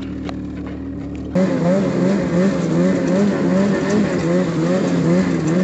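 Snowmobile engine running: a steady low idle, then, after an abrupt cut about a second in, louder running with its pitch rising and falling over and over.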